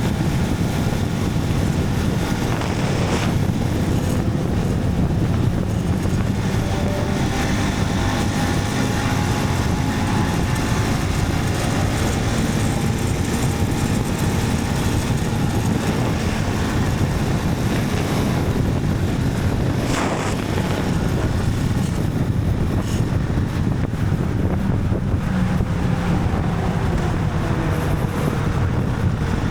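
Motorcycle engine running while riding, its pitch slowly rising and falling, under steady wind noise on the microphone.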